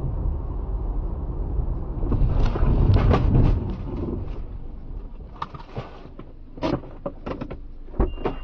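Steady low road and engine rumble of a moving car. It swells into a louder rushing noise about two to three and a half seconds in, then gives way to several short sharp knocks near the end.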